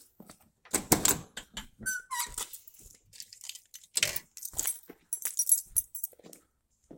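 Handling noises: a string of clicks and knocks with metallic jingling, like keys or loose metal being moved, and a brief squeak about two seconds in.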